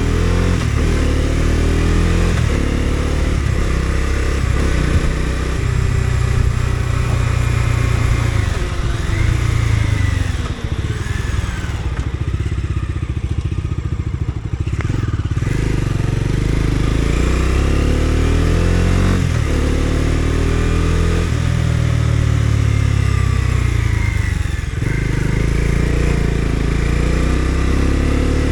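Bajaj Dominar 250's single-cylinder engine under way, its pitch climbing and dropping back several times as the bike shifts up through the gears. Partway through it eases off and falls, then climbs again through more shifts.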